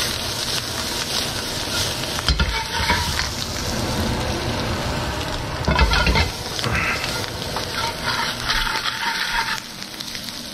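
Parboiled potatoes sizzling as they fry in oil in a pan, stirred with a spoon that scrapes and knocks against the pan. The sizzle eases a little near the end.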